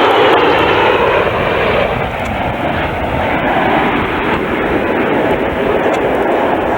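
Jet noise of a Boeing E-4B's four CF6 turbofans going past in a low high-speed flyby at about 350 knots. The sound is loud and steady, dropping in pitch and easing somewhat after about two seconds as the aircraft moves away.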